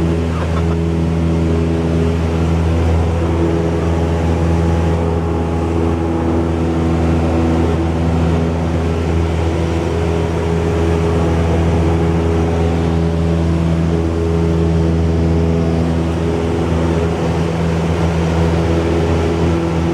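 Cessna 172's four-cylinder piston engine and propeller running steadily at constant power, one even pitched hum with no change in speed.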